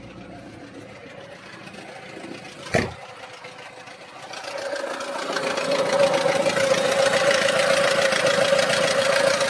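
Lada Niva Legend's 1.7-litre four-cylinder petrol engine running with a knocking clatter, which appeared despite an anti-knock oil additive. There is one sharp thump about three seconds in. From about five seconds the sound grows louder, with a steady whine over a fast clatter.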